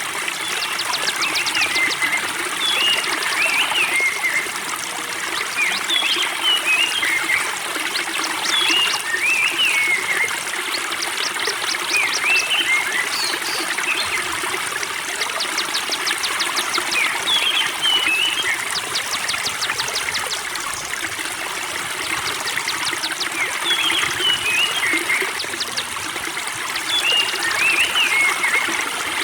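Water trickling and burbling steadily at a spring, with songbirds calling over it: clusters of short, up-and-down chirps and quick, high rattling trills that recur every few seconds.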